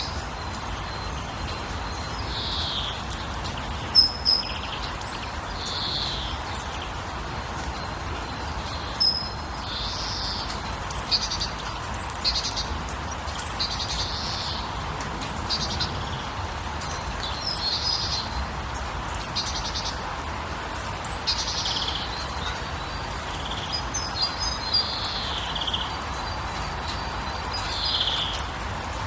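Birds chirping, many short high calls scattered throughout, over a steady background hiss.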